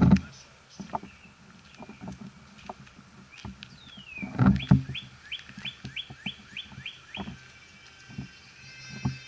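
A bird calling: one falling whistle, then a quick run of about nine short rising notes. Low thumps come at the start and again about four and a half seconds in.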